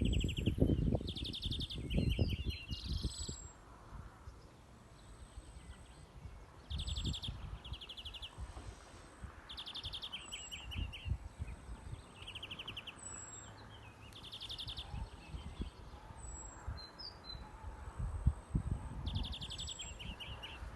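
European greenfinch singing: short, rapid rattling trills, each under a second and some ending in a lower chattering run, repeated every few seconds. A low rumbling noise runs underneath and is loudest in the first few seconds.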